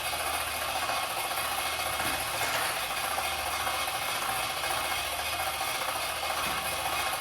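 Small motor and gears running with a steady whir and rattle.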